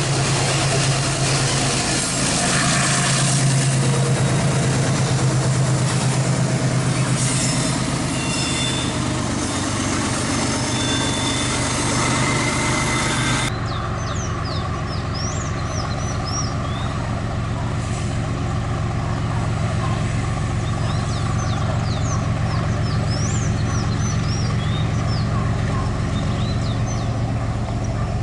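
Diesel freight locomotive running, a steady low engine drone with rail and wheel noise over it. About halfway through the sound cuts abruptly to another locomotive engine drone, with birds chirping over it.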